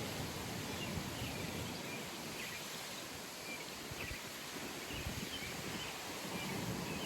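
Outdoor pond ambience: steady wind noise with low gusty rumble on the microphone, and faint, scattered bird chirps.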